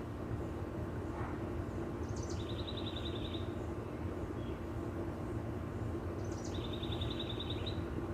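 A songbird giving a rapid trill of quick repeated notes about a second long, twice, each trill led by a short higher note. Under it runs a steady low rumble of background noise.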